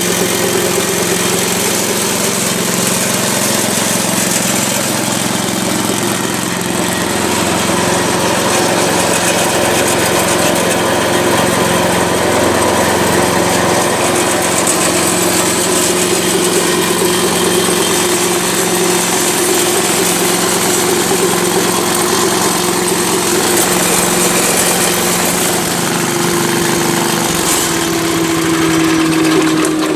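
5 hp Tecumseh single-cylinder flathead engine on a wood chipper running steadily, on its first run after a carburetor replacement. Its pitch drops a little over the last few seconds as the engine slows.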